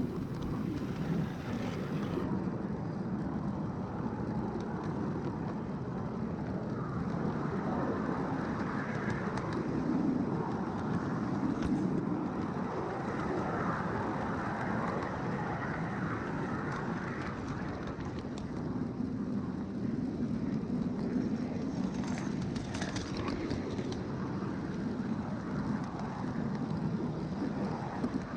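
Ride-on 5-inch gauge miniature train running along the track, its wheels giving a steady rumble with a few brief clicks, likely at rail joints, partway through.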